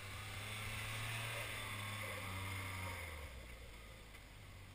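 Suzuki Jimny's small 660 cc three-cylinder engine pulling steadily under load up a snowy slope, with its tyres churning through the snow. It grows louder about a second in as the Jimny draws close, and eases off after about three seconds as it passes.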